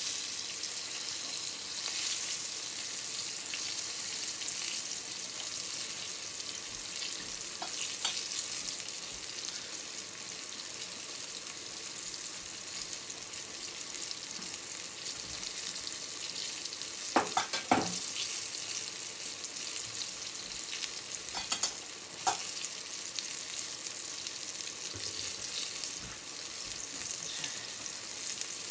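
Eggplant pieces sizzling and bubbling in a small frying pan, a steady high hiss with a few short, sharper pops and clicks about two-thirds of the way through.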